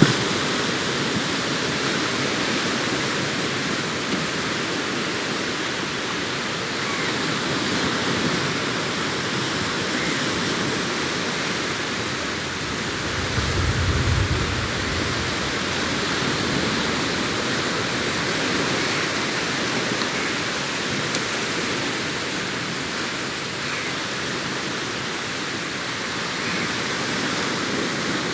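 Sea surf washing onto a beach: a continuous hiss of breaking waves that swells and eases gently, with a brief low rumble about halfway through.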